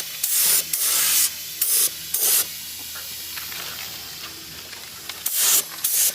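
Compressed air hissing in short bursts, about five in the first two and a half seconds, then a quieter stretch, then rapid bursts again near the end.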